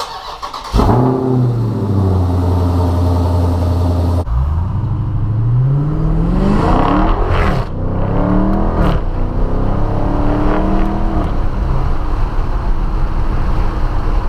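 2023 Dodge Charger Scat Pack's 392 HEMI V8 starting up about a second in and holding a steady high idle. Its exhaust is then revved several times, the pitch rising and falling with each blip.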